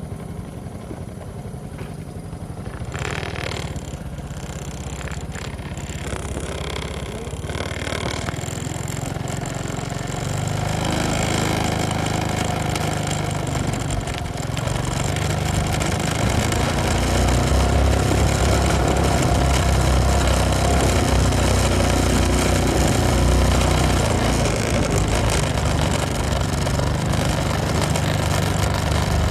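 Motorcycle engine running while riding, with a steady low note that gets louder about ten seconds in and again a few seconds later as the engine is put under more load.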